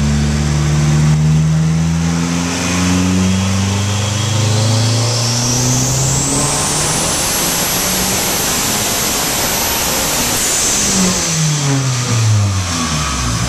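Turbocharged Volvo engine making a full-throttle dyno pull: the revs climb steadily for about ten seconds while a high-pitched whine rises with them and then holds, before the throttle is released and the revs fall away near the end.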